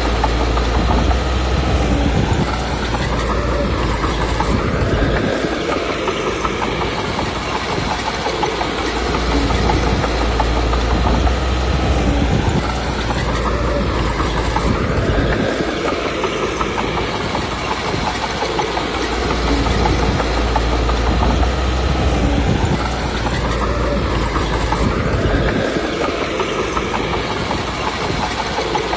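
Komatsu D21P crawler bulldozer working: the diesel engine revving up and falling back while the steel tracks clank, in a cycle that repeats about every ten seconds.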